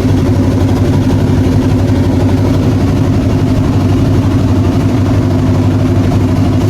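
Classic Pontiac Grand Prix engine idling steadily just after a cold start, warming up.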